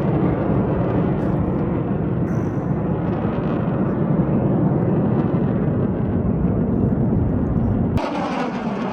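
Military jet aircraft roaring past at an air show, a heavy, steady low rumble. About eight seconds in the sound cuts to a brighter jet roar with a falling, sweeping tone as a plane passes.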